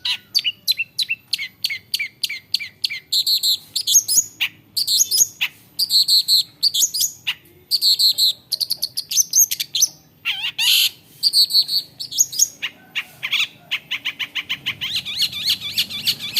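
Long-tailed shrike singing a long, varied song: a quick run of short repeated high notes, then changing louder phrases, and a fast run of notes near the end.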